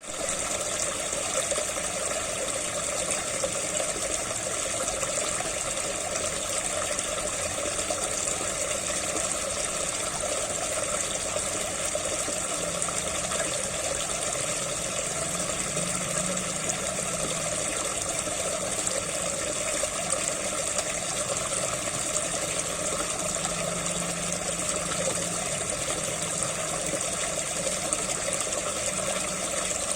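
Water from a SunSun JTP-5800 pond pump gushing and splashing steadily into the pond.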